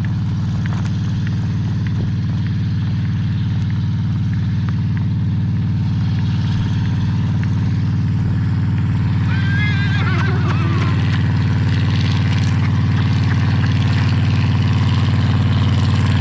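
A noisy motor running steadily with a low, even hum, growing gradually louder.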